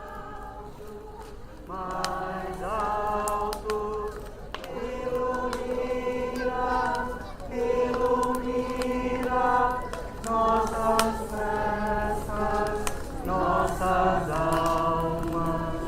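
A group of voices singing a slow song together in long held notes, quieter at first and swelling about two seconds in.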